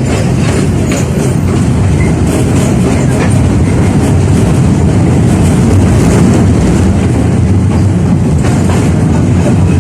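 A 71-605A (KTM-5A) tram running along the track, its steady low rumble growing louder over the first few seconds, with a few clicks of the wheels over rail joints.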